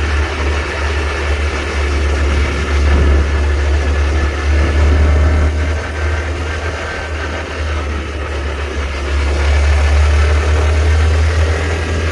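Honda Trail 125's small single-cylinder engine running under way, with a heavy, steady low rumble. Its loudness rises and eases a few times.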